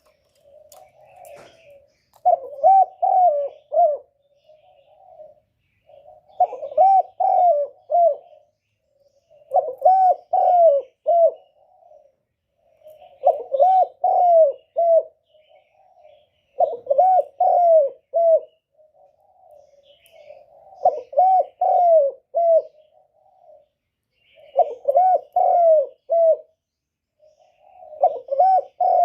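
Spotted dove cooing in a repeated phrase about every three and a half seconds, eight times: a soft lead-in coo, then a run of three or four louder coos. This is the 'gù' courtship coo, used as a lure call to draw wild spotted doves in for trapping.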